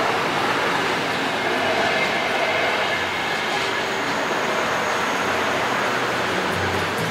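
Train running past on the rails: a steady rush of wheel and rail noise with no chuffing beat. Music fades in near the end.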